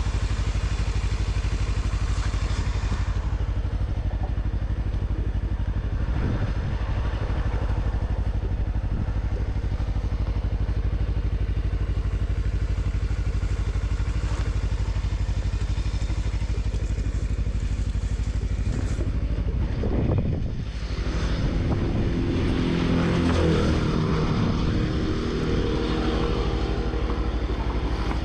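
Motor vehicle engine running steadily on the road with a constant hiss of road noise. About twenty-two seconds in, a louder engine note swells and then fades, like another vehicle passing close by.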